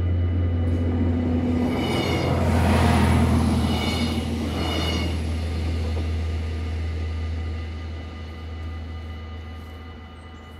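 Stadler GTW diesel multiple unit passing and pulling away. A steady low engine drone runs under wheel and rail noise that swells about three seconds in, then fades steadily.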